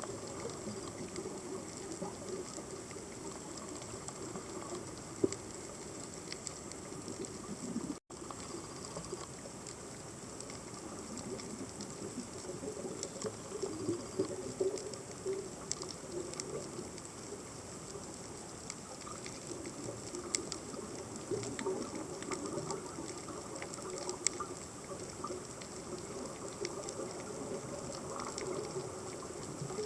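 Underwater reef ambience picked up by a camera in its housing: a steady hiss laced with scattered sharp clicks and crackles, the crackle typical of snapping shrimp. The sound drops out for a moment about eight seconds in.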